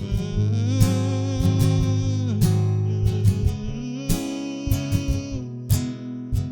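Band playing an instrumental passage: strummed acoustic guitar over a steady low bass, with a lead line holding two long notes, the first sliding down as it ends.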